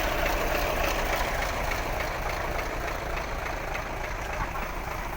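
Daewoo DV15 twin-turbo V8 diesel engine running steadily at idle.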